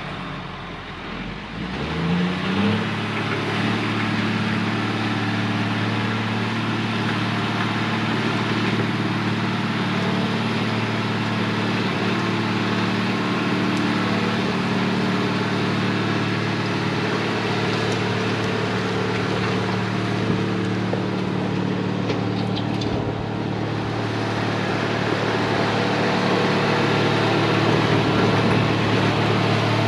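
Heavy diesel engine of an earthmoving machine revving up about two seconds in, then running steadily at high revs under load, a little louder near the end.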